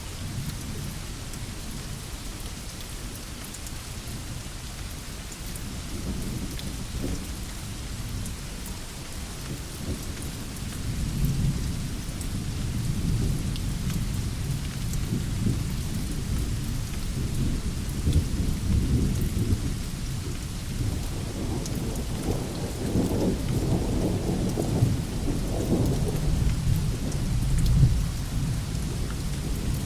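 Steady rain falling on a veranda, an even hiss, with a low rolling rumble that builds through the second half and peaks near the end.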